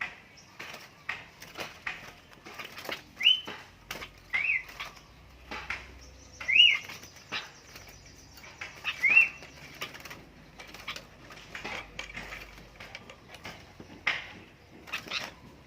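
Small birds fluttering their wings and scrabbling, with many short clicks, and giving a handful of brief chirps that rise and fall in pitch.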